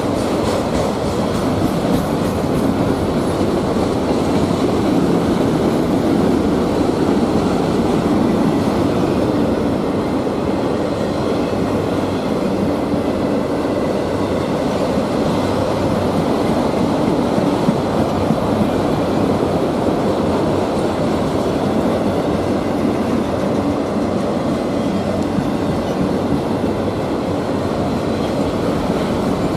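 Freight train rolling past at steady speed, its cars' wheels clicking and clacking over the rail joints in a continuous loud rumble.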